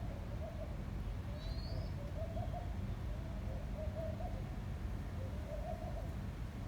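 A dove cooing: a soft low call repeated about every second and a half, over a steady low wind rumble. A single short high chirp from another bird about a second and a half in.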